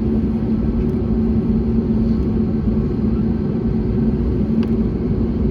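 Steady cabin noise of an Airbus A321neo with Pratt & Whitney PW1100G geared turbofans: a loud, even rumble with a constant hum.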